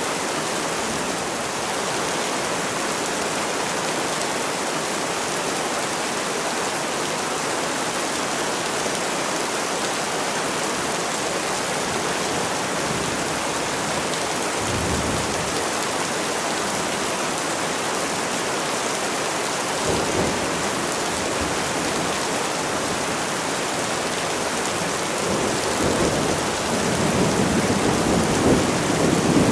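Steady heavy rain falling, with low rumbles of thunder about halfway through and a longer, louder rumble near the end.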